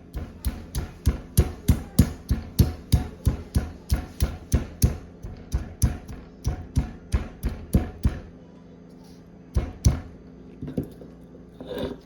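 Rhythmic hard strikes during kitchen prep, about three a second for some eight seconds, then a short pause and two more strikes.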